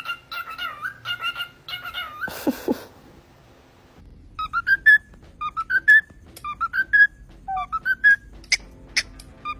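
A pet parrot whistling a tune in short, clear notes. One phrase comes first, then a brief noisy scuffle about two and a half seconds in and a short pause. After that comes a run of short rising whistles repeated in a melody-like pattern.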